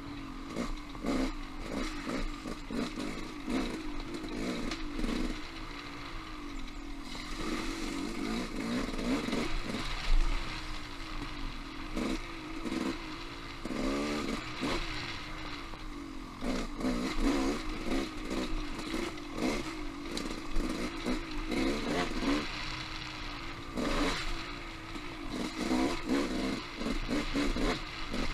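Dirt bike engine riding singletrack, its note rising and falling over and over as the throttle is worked, with scattered knocks and clatter from the ride.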